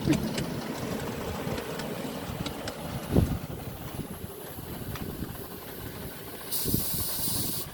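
Ride-on miniature railway train running, a steady rumble with scattered clicks and a knock about three seconds in. A burst of hissing comes near the end.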